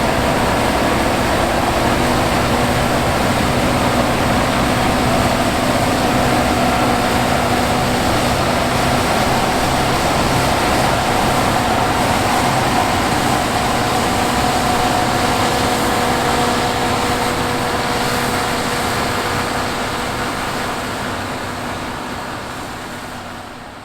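Fendt IDEAL 7 combine harvester running while harvesting wheat: a steady engine and machinery drone with a few held tones, fading out over the last few seconds.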